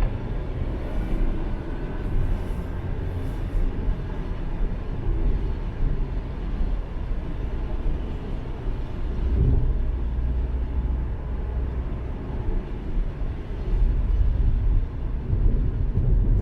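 Car driving along at road speed: a steady low rumble of engine and tyre noise, swelling somewhat louder near the end.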